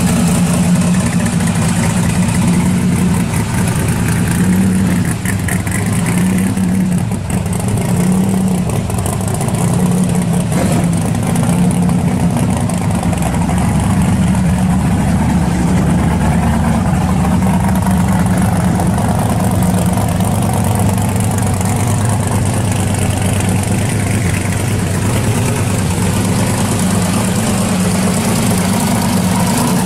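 Supercharged V8 of an early-1960s Chevrolet pro-street car idling with a deep, uneven, loping beat.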